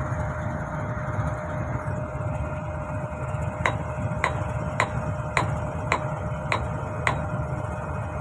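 Seven sharp metal strikes with a short ring, evenly spaced a little under two a second, over the steady low rumble of an idling diesel locomotive.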